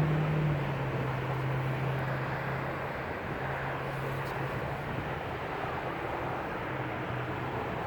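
A vehicle engine hums steadily under traffic noise. The noise fades over the first few seconds, then holds steady.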